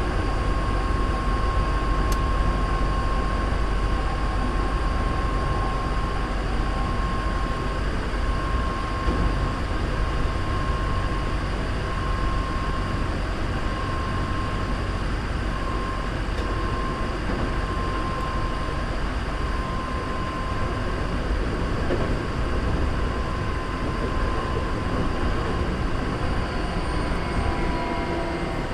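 Hankyu 3300 series electric train running at speed, heard from inside a passenger car: a steady rumble of wheels on rail with a constant whine. Near the end the whine begins to drop in pitch.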